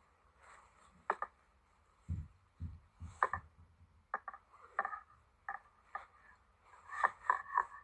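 Tent being pitched by hand: a string of sharp clicks and crackles of poles and fabric being handled, with two dull thumps about two seconds in and a quick cluster of clicks near the end.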